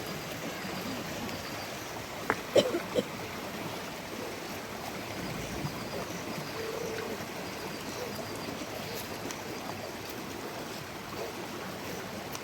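Steady rushing water noise, like rain or running water in a forest, with a few sharp knocks about two to three seconds in.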